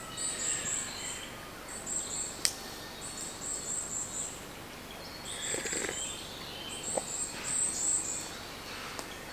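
Wild birds calling: short runs of very high, rapid chirps that repeat every second or so, with lower calls in between. A single sharp click about two and a half seconds in.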